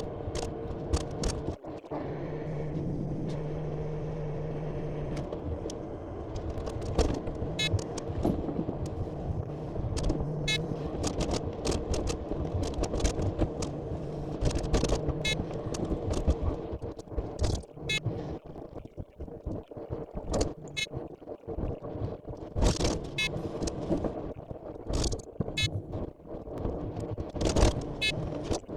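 Timber truck running, with many sharp knocks, scrapes and rattles throughout.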